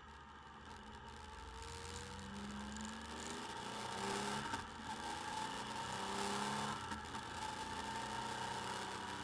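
Motorcycle engine running under way, heard through a bike-mounted camera mic: its pitch rises as it accelerates, with a brief dip about four and a half seconds in before it runs louder again.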